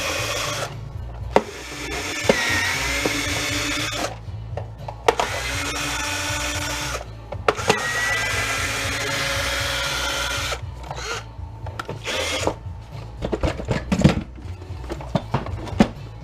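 Electric drill/driver running in four bursts of two to three seconds each, backing out screws from a plastic jump-starter case. It is followed by scattered clicks and knocks of parts being handled.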